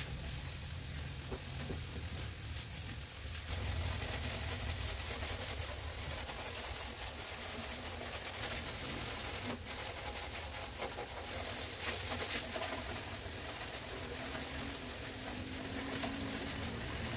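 Greens sizzling in a wok over a gas burner, a steady frying hiss that grows louder about three and a half seconds in, over a low steady hum.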